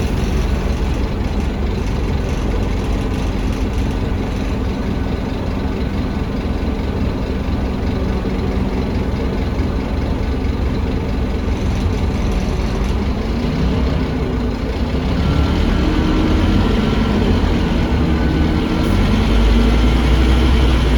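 Scania DC9 nine-litre diesel engine of an articulated Scania K310UA bus, heard on board. It runs steadily at first, then from about two-thirds of the way in it gets louder, its pitch rising and falling as the bus accelerates.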